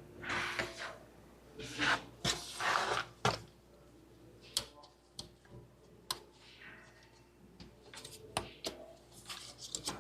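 Work noises from a mechanic handling parts and tools on a car: a few short scraping rustles in the first few seconds, then scattered sharp clicks and knocks.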